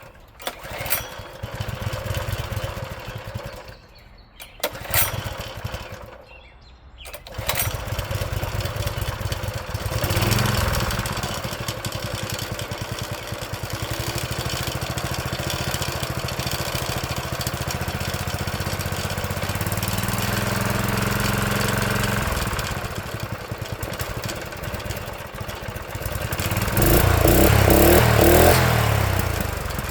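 Honda GX160 single-cylinder engine on a garden tiller, started after sitting six months to a year: it runs briefly twice and drops away, then catches about seven seconds in and keeps running. It speeds up and gets louder a few times, most of all near the end.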